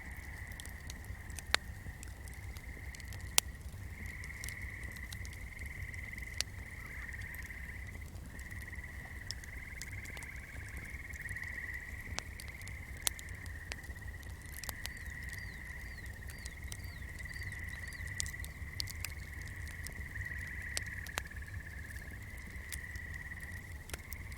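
Swamp night chorus of frogs: a steady, high, pulsing trill, over a low rumble. A flame crackles now and then with sharp pops, the loudest a few seconds in and about halfway through.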